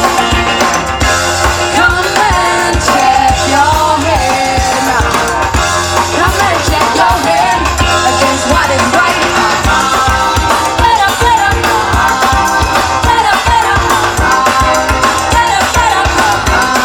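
Live roots-reggae band playing a song with sung vocals over drums and percussion.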